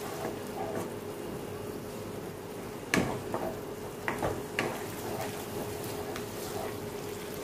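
Onion-tomato masala frying in a non-stick kadai on a gas stove, a steady sizzle as a wooden spatula stirs and scrapes it. A sharp clack about three seconds in, then a few lighter taps.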